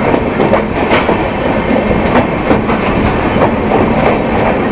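Moving passenger express train: a steady rumble of the running coach with the wheels clattering over the rail joints in irregular clicks.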